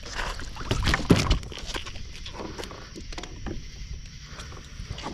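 Knocks and rustling on a kayak as a freshly caught channel catfish and gear are handled: a cluster of sharp knocks about a second in, then scattered lighter clicks.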